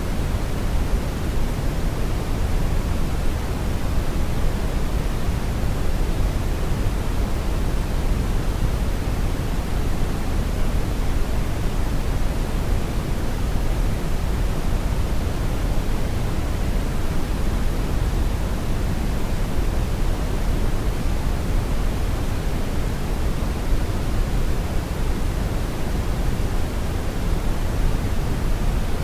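Brown noise: a steady, even rumbling hiss, strongest in the low end and dull on top, with no changes.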